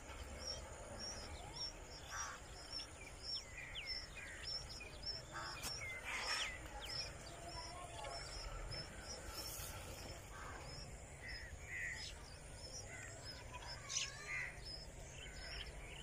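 Birds chirping: a steady series of short, high chirps about two a second, with other scattered bird calls and a few clicks over it.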